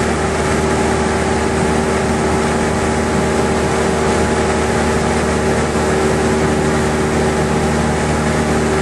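Cessna 172's piston engine and propeller droning steadily in flight, even in pitch with no change in power.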